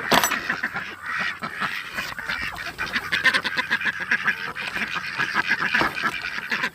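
A flock of poultry calling over one another without a break as they crowd in to be fed, with one sharp, loud call right at the start.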